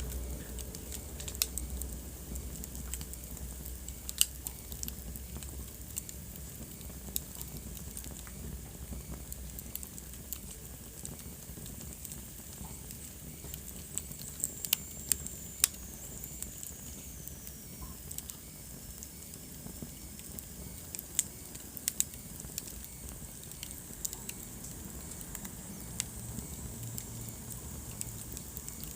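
Wood fire burning in a fireplace: a soft steady hiss of flames with irregular sharp crackles and pops, the loudest about 4, 15 and 22 seconds in. A faint high whistle falls in pitch around the middle.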